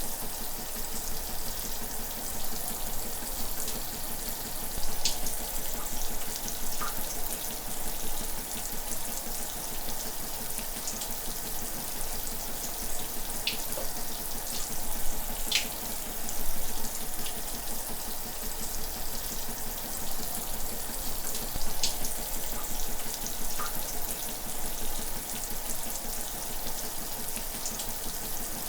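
Shower water running steadily, a constant hiss of spray with occasional small splashes and drips standing out.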